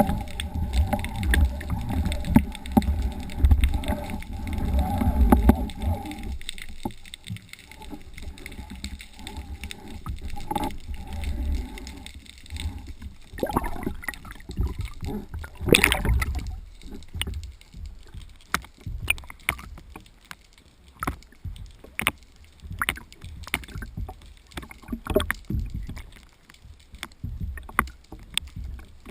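Handling noises on a small fishing boat: a steady hum over a low rumble for about six seconds, then scattered knocks and clicks of gear against the boat, with one louder knock about halfway through.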